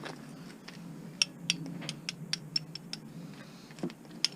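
A quick run of light metal clicks and taps, about ten in two seconds, then one more sharp click near the end, from a small light-metal part being handled and tapped with a magnet to test whether it is steel.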